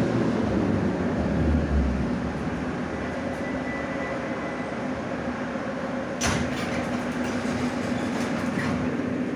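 Moscow Metro 81-717/714 ('Nomernoy') train running, a steady rumble with a low hum, broken by one sharp clack about six seconds in.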